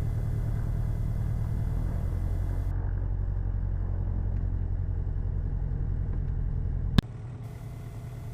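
Cessna 177RG Cardinal's four-cylinder Lycoming engine running steadily at low power with a low drone. About seven seconds in, a click and the drone drops to a quieter level.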